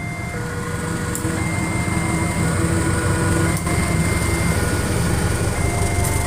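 A train rumbling and growing louder as it approaches, with a string of held electronic tones over it that change pitch about once a second.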